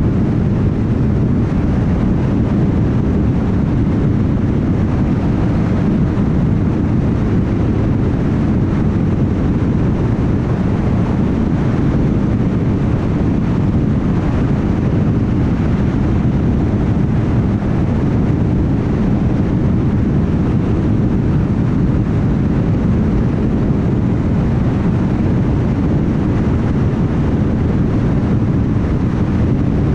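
A car cruising at highway speed: a steady low rumble of tyre, road and engine noise, with no sudden events.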